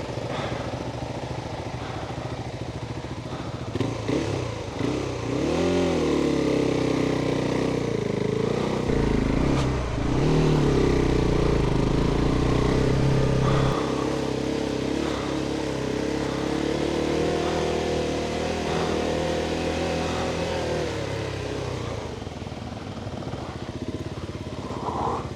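Adventure motorcycle engine running under load on difficult ground. Its revs swing up and down as the throttle is worked, hold fairly steady for a long stretch, and then drop lower near the end.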